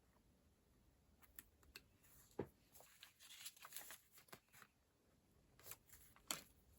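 Faint handling of a paper planner and stationery: scattered light clicks and taps with a soft paper rustle in the middle, and two sharper taps about two and a half and six seconds in.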